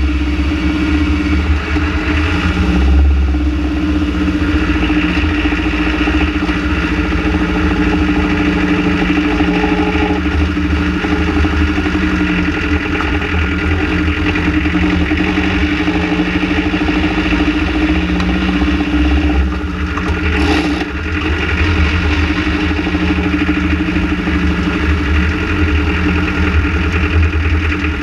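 Renault Trafic van's engine idling steadily at constant speed, the engine whose vibration the owner is investigating. There is a brief dip in level about twenty seconds in.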